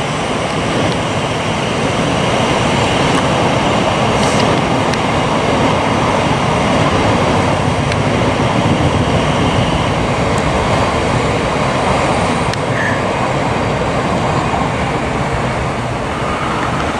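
Class 700 electric multiple unit running along the tracks below, a steady rush of wheels on rail, with a faint steady high tone through the first half.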